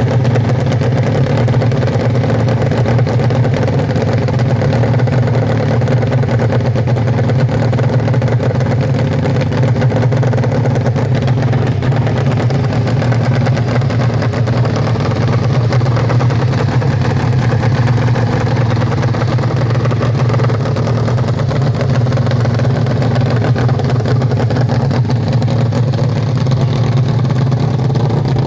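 Nitro-fuelled hill-climb motorcycle engine, an 1100 motor in a dirt-bike frame, running steadily and loud at a fast idle while it warms up.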